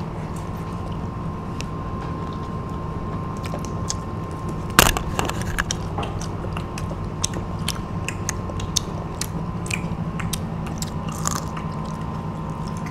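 Crispy batter-and-breadcrumb-fried shrimp being bitten and chewed, a run of sharp little crunches, with one loud crack a little under five seconds in, over a steady background hum.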